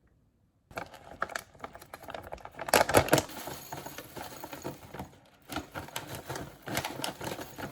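A fast, irregular run of clicks, taps and rustles, like small objects and packaging being handled. It starts suddenly about a second in, with the loudest clatter around the middle.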